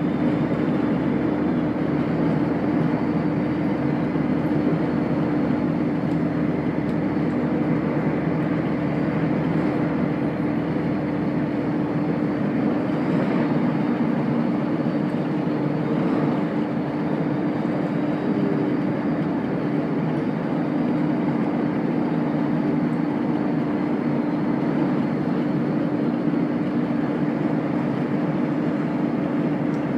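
Chiltern Railways diesel passenger train running at steady speed, heard from inside the carriage: a continuous rumble of wheels on rail with a steady drone.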